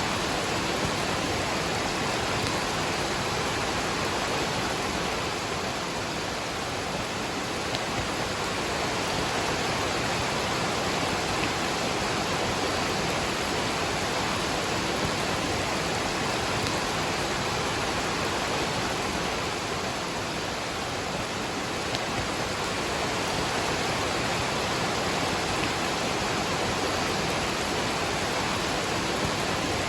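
Steady, even rush of a waterfall, with rain falling.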